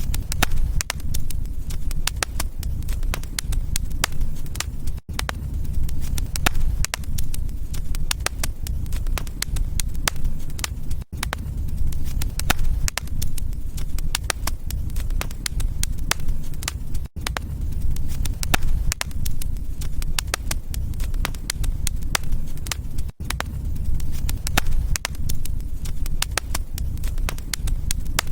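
Wood fire in a fireplace crackling and popping steadily over a low rumble of flame, with a brief dropout about every six seconds.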